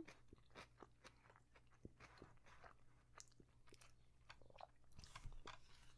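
A person chewing falafel close to the microphone: faint, irregular wet mouth clicks and small crunches.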